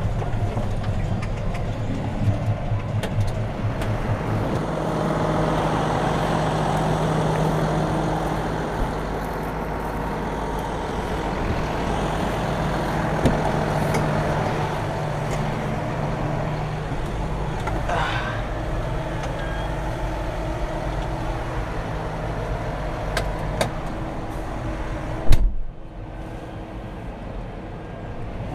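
John Deere 6215R tractor's six-cylinder diesel engine running steadily under load, heard from inside the cab. A sharp knock comes near the end, after which it runs quieter.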